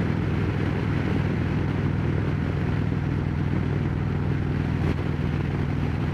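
Harley-Davidson Road Glide Special's V-twin running steadily at cruising speed through Rinehart slim-line true-dual exhausts, with wind noise on the helmet microphone.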